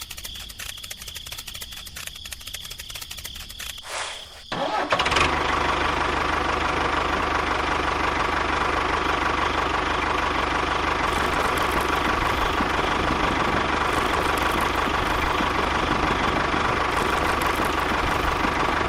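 A small motor-driven machine ticking rapidly, then about five seconds in a louder motor starts up and runs steadily with a constant whine and low hum.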